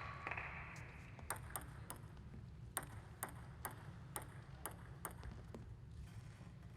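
Table tennis ball clicking against the table and bats, a run of about ten light, sharp pings roughly two a second that stops after about five seconds.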